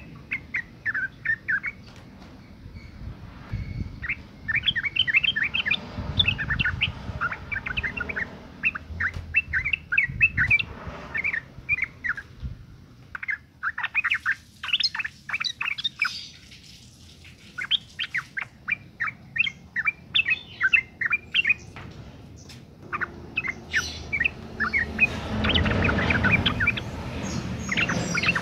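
Female yellow-vented bulbul (trucukan) calling: fast runs of short chattering notes in bouts separated by brief pauses. A low rumble sits under the calls near the end.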